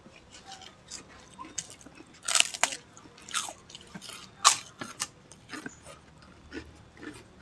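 A person eating at close range, biting and chewing crunchy food with a run of sharp, irregular crunches. The loudest crunches come about two and a half and four and a half seconds in.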